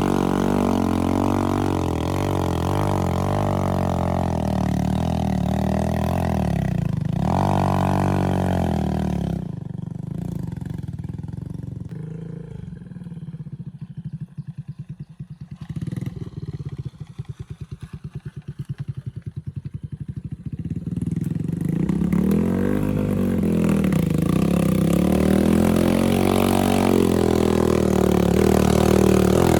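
Off-road motorcycle engine running and being revved. About a third of the way in it drops to a slow idle with distinct, evenly spaced firing pulses, then revs up again near the end.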